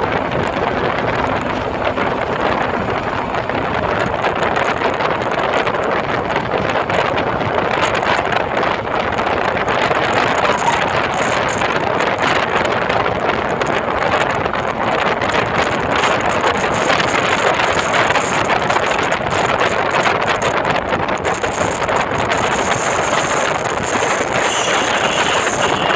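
Steady wind rushing over the microphone of a camera on a moving bike, with road and vehicle noise beneath it.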